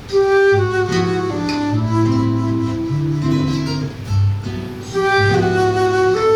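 Flute and seven-string guitar playing a waltz: the flute holds long melody notes over plucked guitar chords and bass notes.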